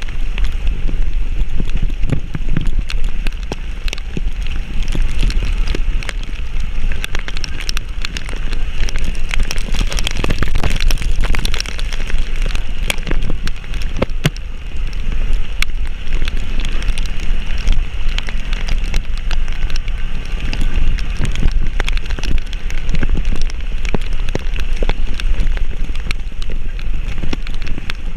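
Heavy rain with wind buffeting the microphone as a low rumble, scattered with many short knocks and rattles.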